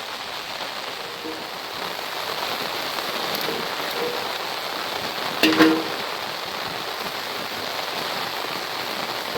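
Steady rain falling, an even hiss throughout. A brief, sharp, louder sound with a short pitched edge cuts in a little over halfway through.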